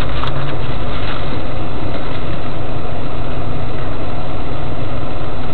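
Car engine idling steadily, heard from inside the cabin through a dashcam's microphone.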